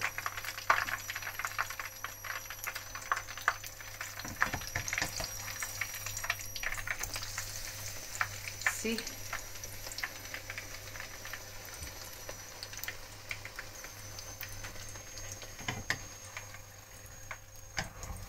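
A bhatura deep-frying in hot oil in a pan: steady sizzling with dense small crackling pops, and a few louder clicks near the end.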